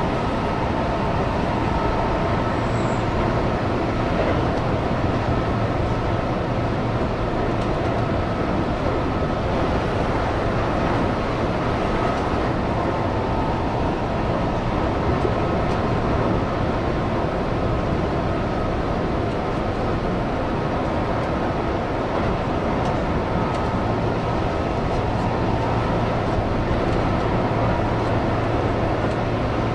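Keihan electric train running at speed: steady wheel-on-rail and running noise, with a faint steady whine.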